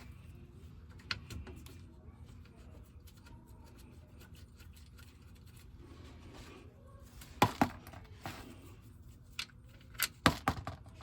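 Scattered metallic clinks and taps of bolts and hand tools being handled while a differential cover is bolted on by hand. The loudest comes about seven and a half seconds in, followed by a cluster of clinks around ten seconds in.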